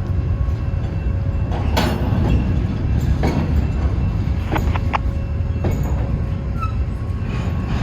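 Norfolk Southern freight train's cars rolling past with a steady low rumble, broken by sharp clanks of wheels and couplers every second or so, and a faint steady wheel squeal underneath.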